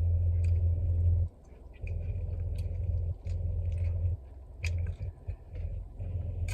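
Close-miked chewing and mouth clicks from eating chicken wings, over a loud low hum that cuts out several times.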